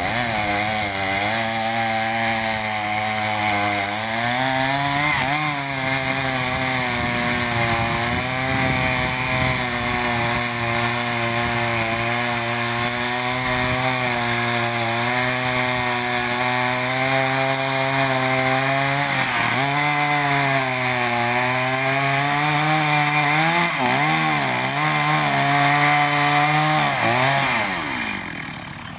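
Chainsaw running at high revs, cutting into a dead oak, its engine pitch repeatedly sagging and recovering as the chain bites into the wood. Near the end the revs fall away and the saw quietens.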